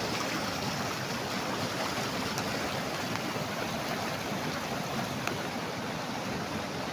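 A fast mountain stream rushing and splashing over rocks, its water churned white. The sound is a steady, even rush.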